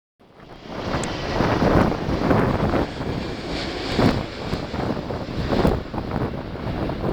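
Wind buffeting the microphone in repeated gusts over a steady rushing jet airliner noise that builds up in the first second and a half.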